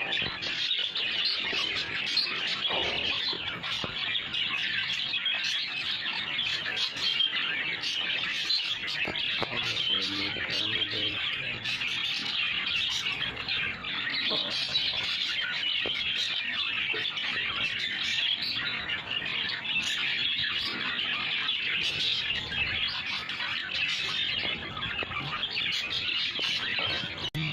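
Budgerigars chattering continuously, a dense stream of short chirps and squawks.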